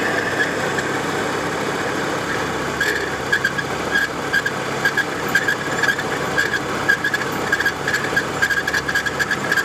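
1993 Volvo 850's five-cylinder engine running, with a high-pitched squeak that starts about three seconds in and repeats about three times a second: most likely a bad idler pulley or timing belt tensioner.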